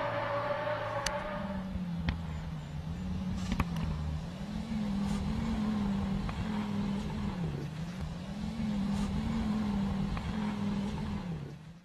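Car engine revving high as the car ploughs through deep snow, fading away within the first two seconds. After it comes a lower engine drone that rises and falls in pitch about every two seconds.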